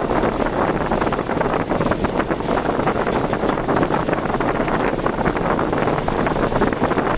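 Steady rushing noise of a car driving in typhoon wind, with wind and road noise and a fine crackle throughout.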